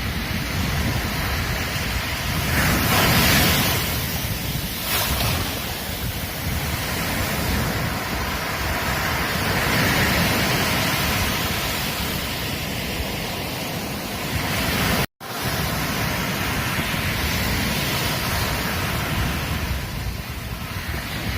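Ocean surf breaking and washing up a beach, swelling loudest about three seconds in and again around ten seconds. The sound cuts out for a split second about two-thirds of the way through.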